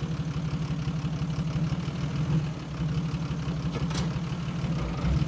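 Bulldozer's diesel engine running steadily at low revs, with a fast, even pulse. A single faint click about four seconds in.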